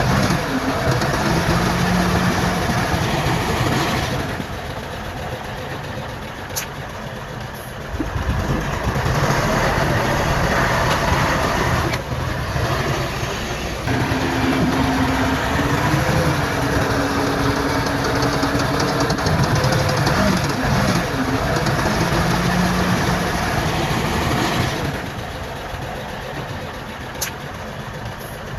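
Diesel engines of heavy earthmoving machinery, bulldozer and dump trucks, running under work, the sound changing abruptly several times.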